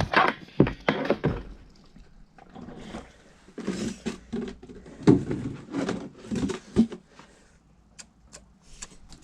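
Gasoline siphoned by mouth through a hose: a run of irregular sucking, spitting and sloshing noises with a few knocks, and several sharp clicks near the end.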